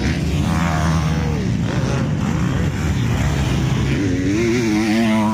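Several motocross bikes' engines running and revving on the track at once; from about four seconds in one bike is louder, its pitch rising and falling as it revs.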